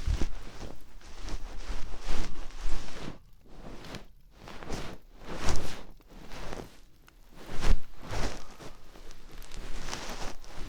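Ear-cleaning sounds on a binaural dummy-head microphone: irregular scratching and rustling strokes against the ear, with thumps of handling.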